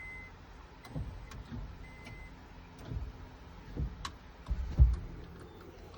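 Scattered clicks and knocks with a few low thumps, the loudest about five seconds in, and a short high beep at the start and again about two seconds in.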